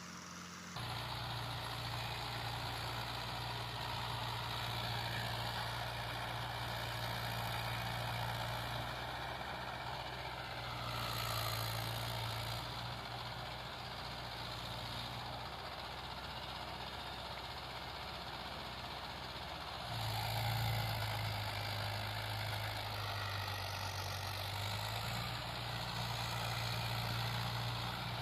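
Tractor's diesel engine running steadily under load while plowing, a constant low hum with a sudden jump in level about a second in and again about twenty seconds in.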